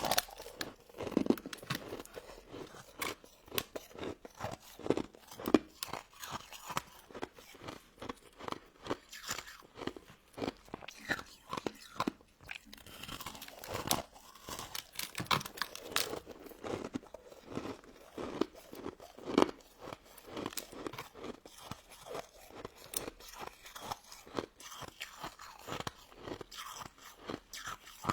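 Close-miked crunching and chewing of crystal snow ice, many sharp irregular crackles as icy crystal pieces break between the teeth.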